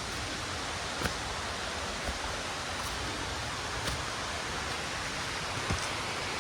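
Steady rush of falling or running water from a jungle stream or waterfall, with a few light knocks about a second, two, four and six seconds in.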